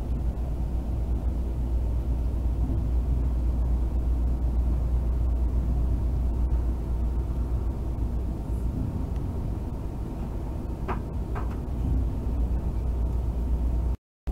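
Passenger train running at speed, heard from inside the carriage: a steady deep rumble of the wheels on the track. The sound drops out for a moment near the end.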